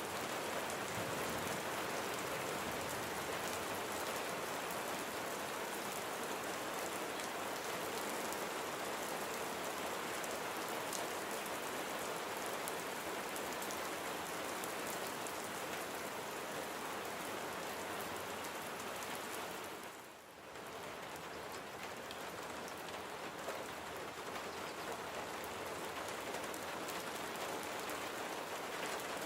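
Steady rain falling on a surface, a dense even hiss with individual drops spattering through it. The sound briefly drops away about two-thirds of the way through, then comes back at the same level.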